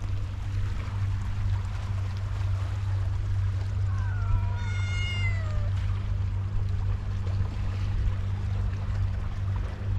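A cat meowing once: a drawn-out meow about four seconds in, lasting under two seconds and falling in pitch at the end. A steady low hum runs underneath.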